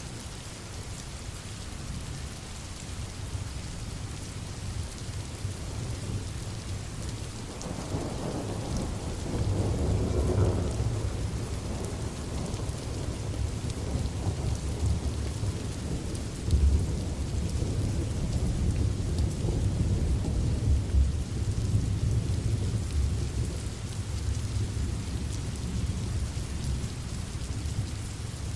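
Steady rain with thunder: a deep rolling rumble swells in about a quarter of the way through and keeps rumbling under the rain, with one sharper crack in the middle.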